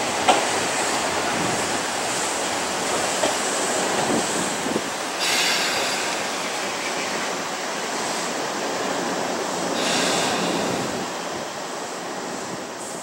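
Izu Kyuko 8000 series electric train running slowly into a station and coming to a stop, with steady wheel and running noise. Two short hisses come about five and ten seconds in, and the sound fades toward the end.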